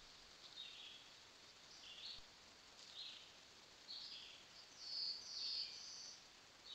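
Faint, short, high bird chirps repeating irregularly about once a second, the loudest a little past the middle, over a steady hiss.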